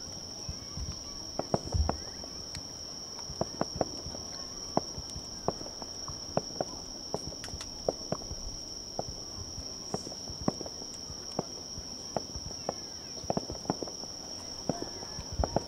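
Aerial fireworks shells bursting in an irregular run of sharp bangs and pops, some louder than others, over a steady high-pitched chirring of insects.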